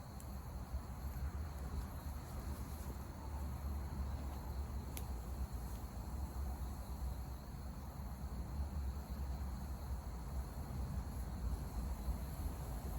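Insects chirring steadily in a continuous high drone, over a low rumble, with a single sharp click about five seconds in.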